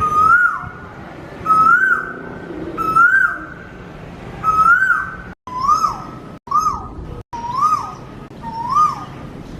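Asian koel (koyal) calling over and over, about one clear whistled call a second. Each call is a held note that rises and then drops sharply, and the calls sit slightly lower in pitch after the middle. The sound cuts out completely three times for a split second.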